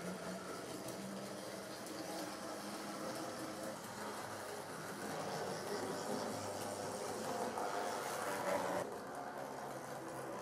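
Steady diesel train running sound, a continuous drone with rail noise, which changes character about nine seconds in.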